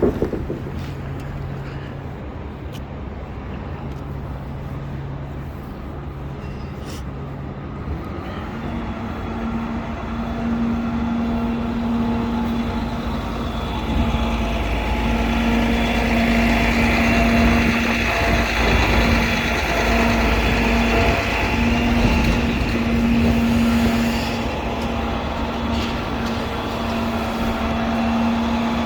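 City street traffic with a heavy vehicle's engine running close by, a steady hum that grows louder about halfway through.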